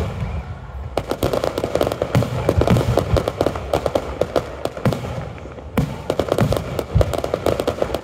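Aerial fireworks display: many shells and ground-level effects bursting in rapid, overlapping succession, a dense string of bangs and crackles, with a brief lull a little past halfway.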